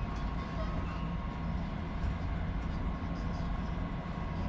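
Semi-truck's diesel engine idling with a steady low rumble, with a faint steady hum above it.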